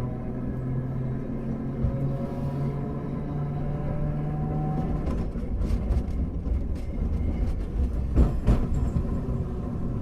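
Hankai Tramway car 351 running on the rails, heard from inside: a steady hum that stops about halfway through, then the rumble of the wheels with several clicks and a louder knock around eight seconds in.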